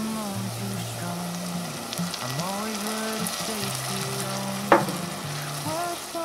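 Browned onions sizzling in a hot stainless steel pot as maple syrup is poured in over brown sugar, the point where the sweeteners go into the caramelized onions. A single sharp click about three quarters of the way through, over soft melodic background music.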